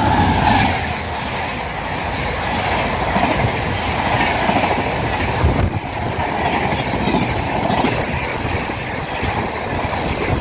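Passenger train passing at speed, a continuous loud rumble with its wheels clattering over rail joints every second or two.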